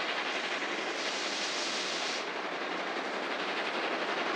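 Train running along the tracks: a steady rolling noise, its highest hiss easing off about two seconds in.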